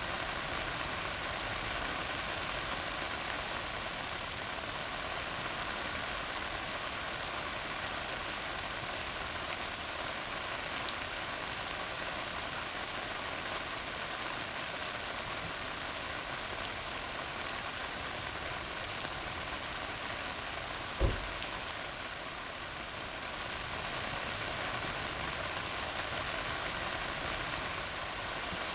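Steady rain falling on a tar road, an even hiss, with one sharp low thump about three quarters of the way through.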